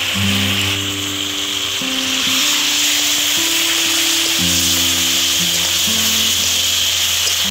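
Drumstick (moringa) pieces sizzling in a kadai over a wood fire as a spatula stirs them, just after mustard paste is added, under steady background music with sustained low notes.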